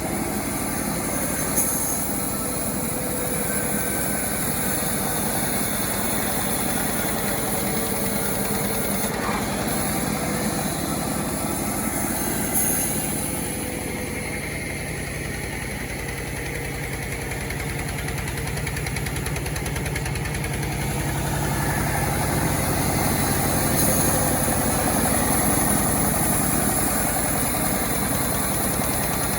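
Engine of a homemade, self-assembled chainsaw running steadily. Its loudness dips a little in the middle and rises again after about twenty seconds.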